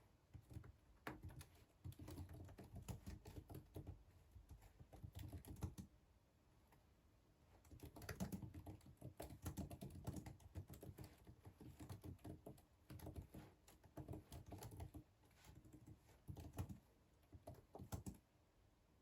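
Faint typing on a computer keyboard: rapid runs of key clicks, pausing for a second or two about six seconds in and stopping shortly before the end.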